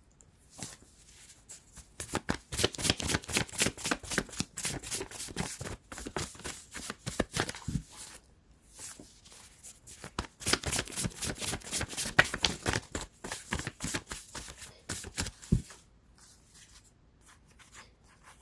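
A deck of tarot cards being shuffled by hand: two long runs of rapid riffling card clicks with a short pause between them.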